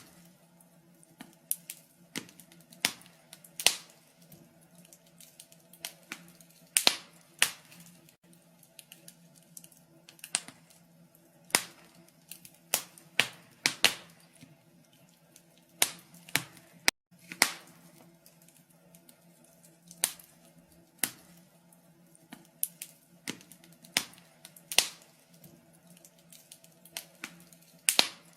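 Wood fire crackling in a fireplace: irregular sharp pops and snaps, sometimes a few close together, over a faint steady hum.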